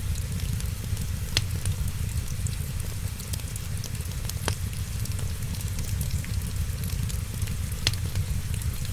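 Wood fire crackling steadily, with three louder pops, over a steady low rumble of rain.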